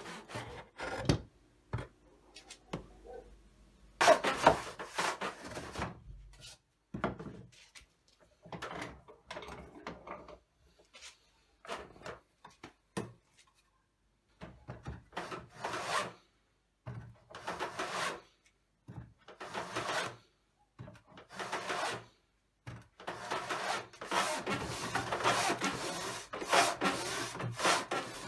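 Hand tool working wood in repeated rough strokes, each under a second to a couple of seconds long, with short pauses between them and a steadier run of strokes near the end.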